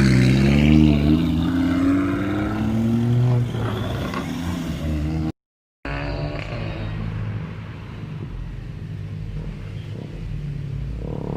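Car engine accelerating, its pitch climbing steadily for about three seconds, then running on steadily. It cuts off abruptly for half a second about five seconds in, then more engine sound follows at a steady level.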